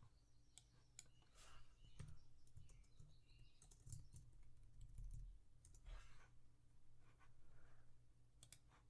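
Faint, irregular computer keyboard typing and mouse clicks, with a few soft low thumps in the middle.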